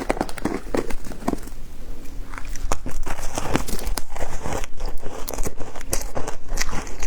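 Frozen matcha ice being bitten and crunched: a dense run of sharp cracks and crackles that grows louder and busier about three seconds in.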